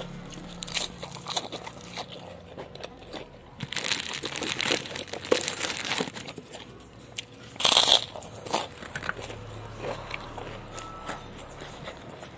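Close-miked mouth sounds of eating crisp fresh lettuce leaf: irregular crunches and wet chewing clicks, the loudest crunch about eight seconds in.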